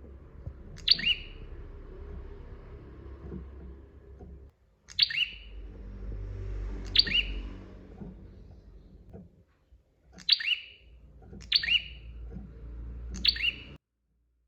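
Prinia (prenjak) calling: six sharp, loud chirping calls, each with quick falling notes, spaced a second or two apart over a low background rumble. The sound cuts off abruptly near the end.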